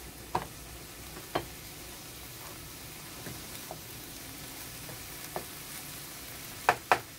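Ground beef with diced onion, carrot and celery sizzling in a frying pan while a wooden spatula stirs it. The spatula knocks against the pan a few times, twice in quick succession near the end.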